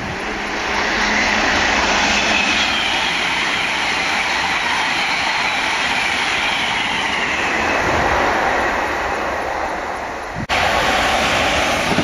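Hitachi Intercity Express Train passing at speed: a steady rush of wheels on rail that swells up in the first second, with a faint high whine slowly falling in pitch. The sound breaks off abruptly about ten seconds in and comes straight back just as loud.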